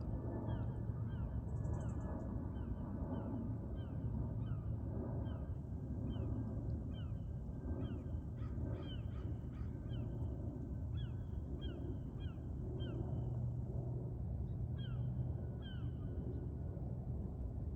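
Birds calling over and over, short falling calls about twice a second, over a steady low hum.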